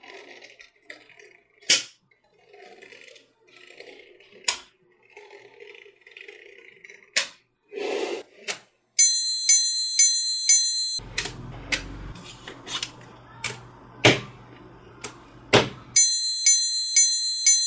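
Small magnetic balls clicking sharply together one at a time, with soft handling rustle between the clicks. From about nine seconds in, background music with a repeating high chiming pattern comes in over the clicks.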